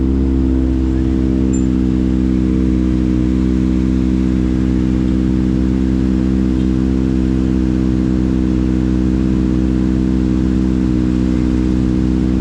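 Kawasaki ZX-25RR's 249 cc inline-four engine idling at a steady, unchanging speed.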